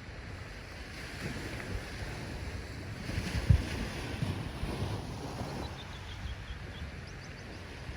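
Ocean waves washing in, a steady rushing surge that swells about halfway through, with wind buffeting the microphone and one sharp low thump from a gust near the middle.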